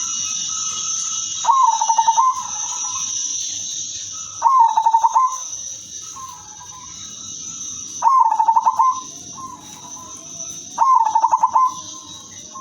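Zebra dove cooing: four trilled phrases, each opening with a sharp rising note and running into a fast rattle of pulses, about one every three seconds. A steady high-pitched hiss runs underneath.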